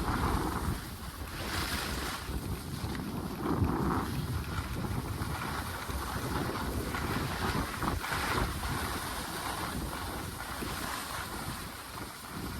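Wind buffeting the microphone: a rough low rumble with rushing noise that swells and eases in gusts.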